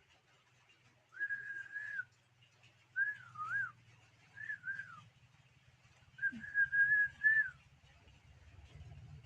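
Four clear whistled phrases around a single pitch: a held note about a second in, a wavering up-and-down note, two short falling notes, then a longer held note with a slight warble, the loudest of the four. A faint low hum runs underneath.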